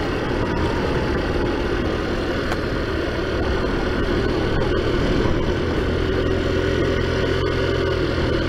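Taotao Zummer scooter's modified 50cc-class four-stroke engine running steadily with an even, unchanging pitch while riding.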